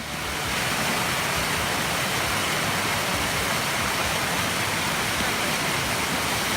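Waterfall of about 30 feet rushing steadily, running high from recent rains. Its even rush of water rises over the first half second, then holds steady.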